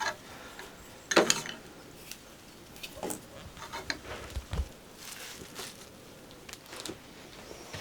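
Scattered knocks and light clinks of things being handled, like dishes and utensils being moved about, with a sharper knock about a second in and a low thump a little past the middle.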